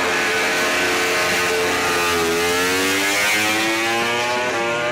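MotoGP racing motorcycle engines at high revs, the pitch dipping about two seconds in and then climbing steadily as the bikes accelerate.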